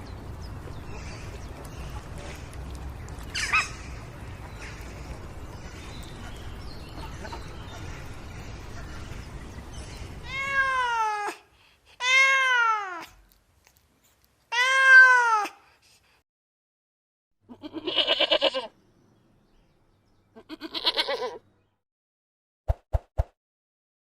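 A steady background rumble with one short sharp call about three seconds in, then a cat meowing three times, each meow rising and falling. Then two quavering goat bleats, and a few short clicks near the end.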